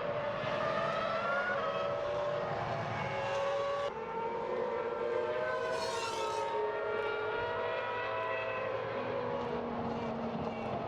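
Several Formula 1 V10 engines running at the same time, their pitches rising and falling as they rev and change gear, with a brief high whine sweeping up and back down about six seconds in.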